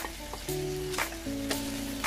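Prawns with ginger and garlic sizzling as they fry in a wok, with background music playing a melody over it.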